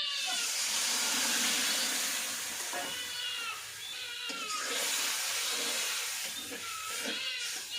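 A steady loud hiss for the first two and a half seconds, then several drawn-out animal calls that bend down in pitch, near the middle and again near the end.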